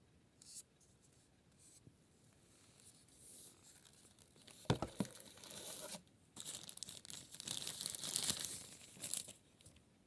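Crinkling and tearing noises in short, irregular bursts, with one sharp knock a little before the middle. The crinkling grows denser over the second half and stops shortly before the end.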